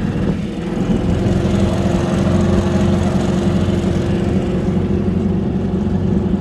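Outboard motor on a small sailing yacht running steadily, pushing the boat along at an even speed.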